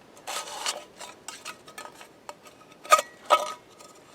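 Cold Steel RECON 1 Tanto folding knife cutting through a tin can, steel scraping and clicking on thin tin. Two sharp, ringing metallic clanks come about three seconds in.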